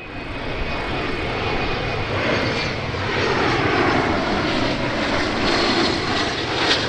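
Business jet's engines on landing approach, a loud whooshing roar that swells over the first few seconds as the aircraft comes close by, with a slowly sweeping tone in the noise.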